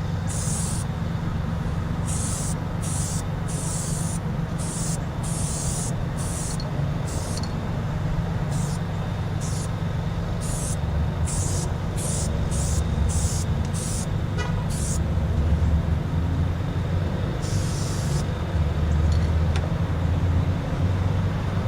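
Aerosol can of spray adhesive hissing in over a dozen short bursts, most in quick succession, with a longer spray later on, as glue goes onto a car headliner. A steady low rumble of vehicle noise runs underneath.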